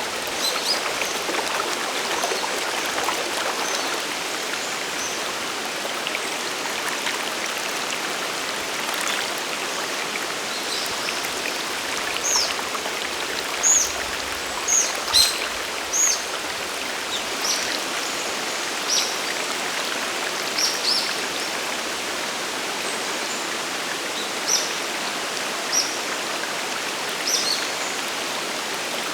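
Steady rushing of a mountain stream and waterfall. Short, high bird chirps sound over it, scattered at first and frequent from about halfway through.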